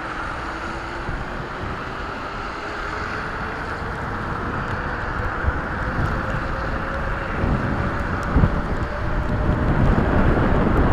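Wind buffeting the microphone and road noise while riding an e-bike, with a faint whine slowly rising in pitch. A few low thumps come in the second half as the noise grows slightly louder.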